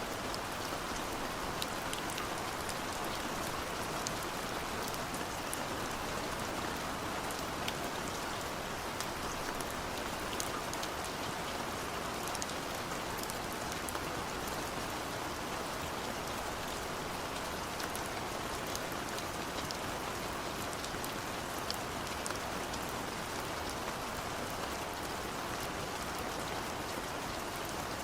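Steady rain with scattered sharp ticks of single drops landing, holding an even level throughout.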